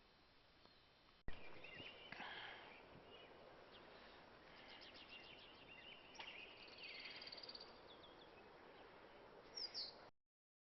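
Small birds chirping and trilling, with quick runs of repeated notes, over a low background hiss. The sound starts abruptly with a click about a second in and cuts off near the end.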